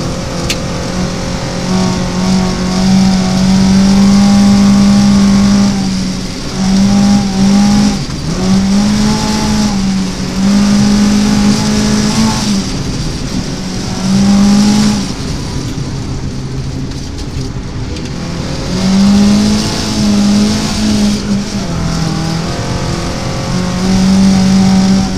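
Rally car engine heard from inside the cockpit, held at high revs for stretches with short dips and pitch glides between them as the driver shifts gear and lifts. About two-thirds of the way through the revs drop off for a few seconds before the engine pulls hard again.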